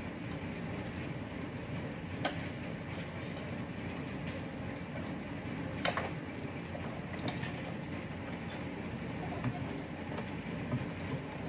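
Hand work on a car's fuel pump assembly: a few sharp clinks and knocks of metal parts and tools, the loudest about six seconds in, over a steady low rumble.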